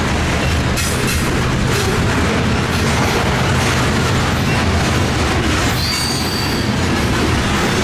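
Freight train rolling past close by: a steady loud rumble of wheels on rail with a low drone underneath, and a brief faint wheel squeal about six seconds in.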